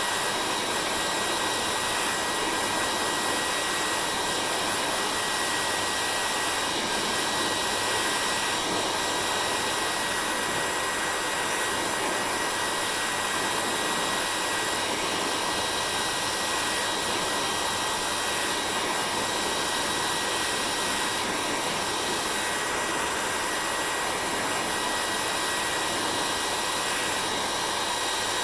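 Hair dryer running steadily: a constant blowing rush with a thin, even motor whine over it.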